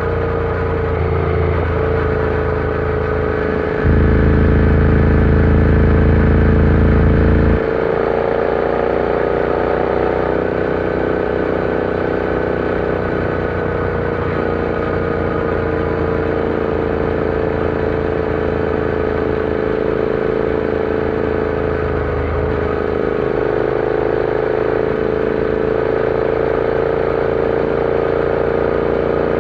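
Royal Enfield Interceptor 650's parallel-twin engine running steadily at cruising speed under way, its pitch drifting slightly up and down with small throttle changes. A louder low rumble cuts in suddenly about four seconds in and drops away just as suddenly a few seconds later.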